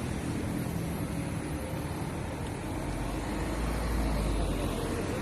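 Street traffic noise with no speech. A low vehicle rumble swells in the second half.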